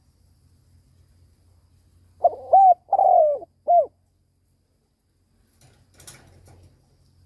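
Spotted dove (chim cu gáy) cooing one phrase of three notes, two longer ones then a short clipped one: the call of a decoy bird used to lure wild doves. A faint brief rustle with a click follows near the end.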